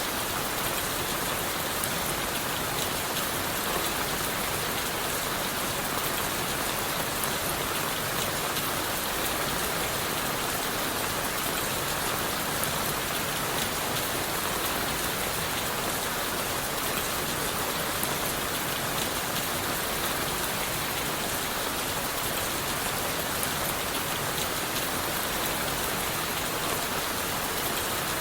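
Steady rain falling on leaves and wood, a dense even patter of drops with fine ticks throughout.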